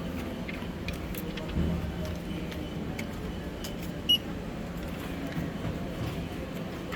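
Airport check-in hall ambience: a steady low hum with scattered faint clicks, and one short, sharp, high-pitched blip about four seconds in.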